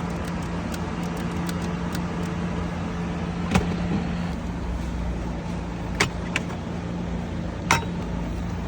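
A few sharp clicks and knocks from hands and a screwdriver working on the plastic steering-column trim, four in all and spread over several seconds, over a steady low hum.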